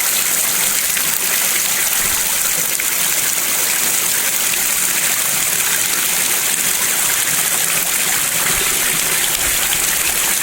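Steady rushing of a stream, an even loud hiss of running water.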